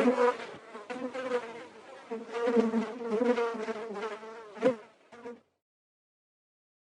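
Insect buzzing sound effect, like a fly, swelling and fading in loudness, then cutting off about five seconds in.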